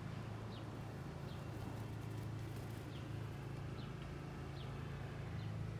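Steady low engine hum from a small motor, with about six faint, short, high bird chirps scattered over it.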